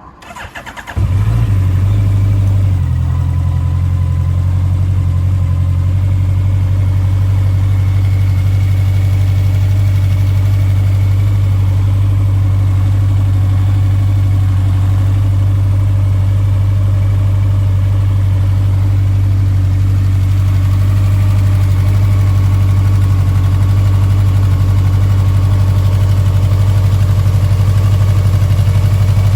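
Honda CB1100RS air-cooled inline-four motorcycle engine cranked on the starter and catching about a second in, then idling steadily. The idle note shifts slightly about three seconds in and stays even from then on.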